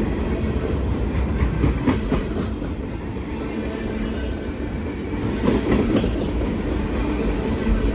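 A train rolling past at close range: a steady rumble of cars on the track, with irregular clacks as the wheels cross rail joints.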